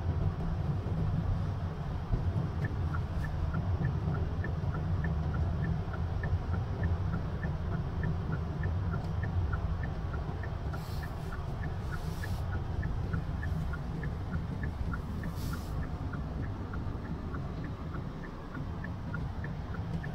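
Car cabin noise while driving, a steady low rumble of engine and road. From a couple of seconds in, an even alternating tick-tock runs under it, about three to four ticks a second, like a car's turn-signal indicator.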